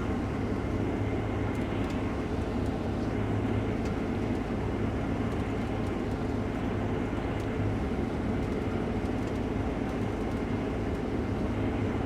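Case IH Axial-Flow combine running steadily while cutting wheat: an even engine and machinery drone that does not change.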